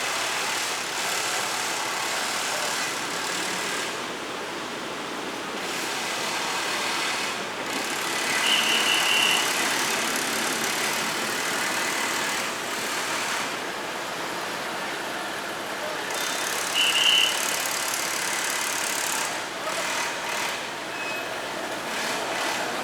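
Wind and road noise on a moving motorcycle, a steady rush that swells and eases. Short high chirps sound about 8 seconds and 17 seconds in.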